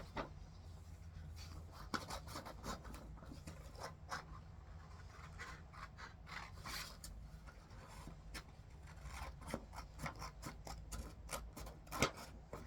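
Scissors snipping repeatedly in short, irregular cuts, cutting out a hand-drawn sign.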